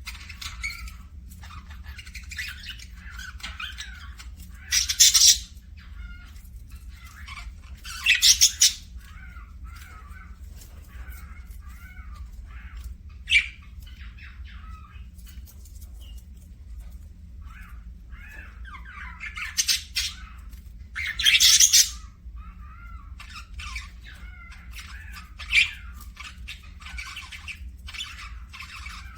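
Pet parakeets chattering and warbling without a break, with about six loud, harsh squawks breaking through.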